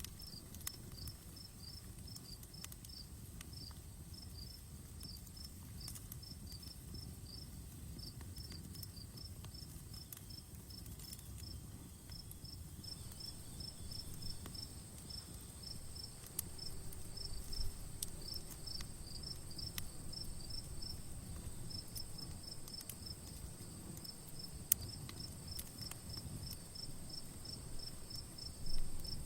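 Crickets chirping steadily in a regular run of short high chirps, over an outdoor campfire with a low steady rush and occasional sharp crackles and pops.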